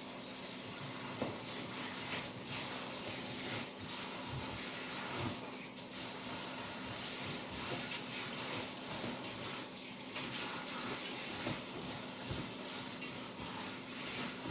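Kitchen tap running into the sink while food is rinsed in a strainer, with light clinks of dishes throughout.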